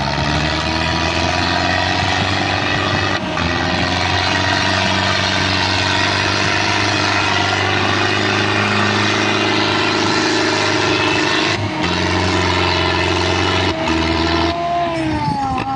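Tractor diesel engine running at high revs. The pitch rises at the start, dips briefly three times, and falls near the end as the revs drop.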